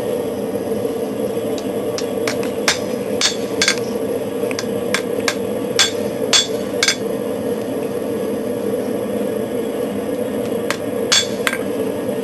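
Hammer tapping a hot steel knife blade on an anvil during final straightening: about a dozen light, uneven strikes, a pause of a few seconds, then three more near the end. Under it runs the steady roar of a small forced-air forge.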